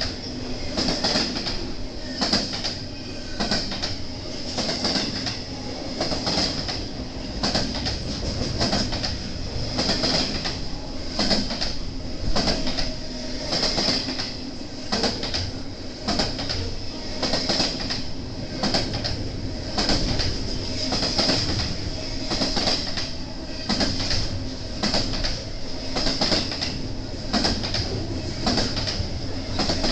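BNSF intermodal freight train rolling past, its wheels clattering over rail joints in a steady repeating rhythm. A constant high-pitched whine runs under the low rumble.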